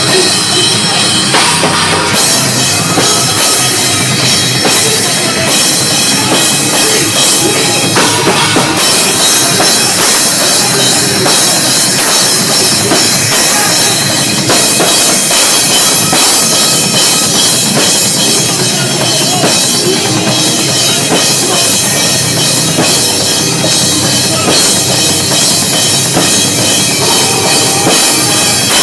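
Live metalcore band playing loud and distorted, with drum kit and heavily overdriven guitars, recorded with poor audio quality.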